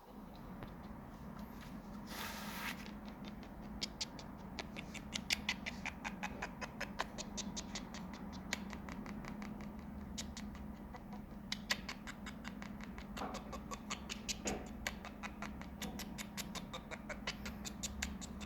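Sony MDR-XB650BT Bluetooth headphones giving out a steady low hum with rapid, irregular clicking and crackling over it, the sound fault being shown. A short hiss comes about two seconds in.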